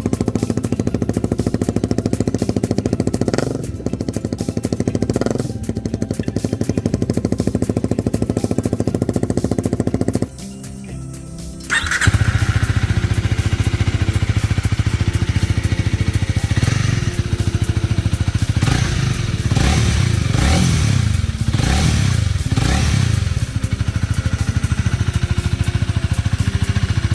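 Honda Rebel motorcycle engine with an aftermarket muffler, idling steadily. It cuts out about ten seconds in, starts again a second or two later, and is then revved up and down several times.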